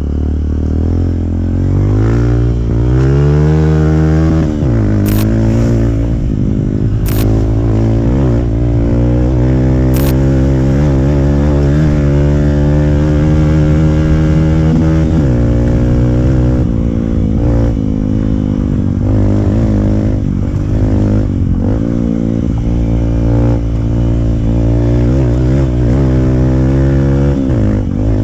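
Modified Hero Impulse's single-cylinder four-stroke engine through a free-flow exhaust, revving and running under load off-road. The pitch rises and falls with the throttle and drops sharply a few times. A few sharp knocks come in the first ten seconds.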